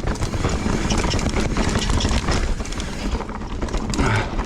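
Mountain bike rolling fast over a rough, wet dirt trail: a constant rumble of tyres on the ground, full of quick clattering knocks from the bike jolting over bumps.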